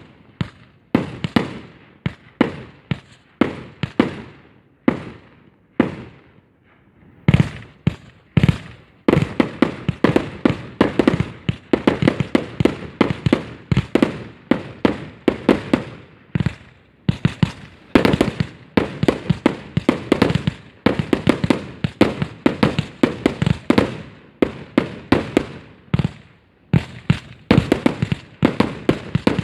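Aerial fireworks display: shells bursting in a string of sharp bangs, spaced out at first with a short lull about six seconds in, then coming in dense, rapid volleys from about nine seconds on.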